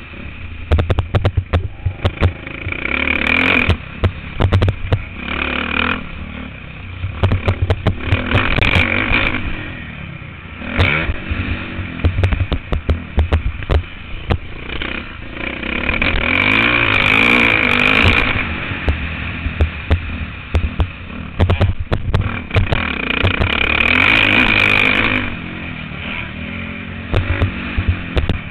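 Motocross bike engine heard from a camera mounted on the bike, revving up and shutting off again and again as the rider works the throttle, with two longer pulls in the second half. Many sharp knocks and rattles run through it.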